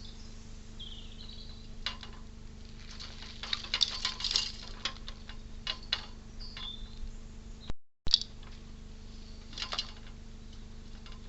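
Clusters of small sharp clicks and scratches, typical of a squirrel scrabbling and gnawing at a bird feeder, busiest a few seconds in and again near the end, over a steady low hum. A few brief high chirps sound in between.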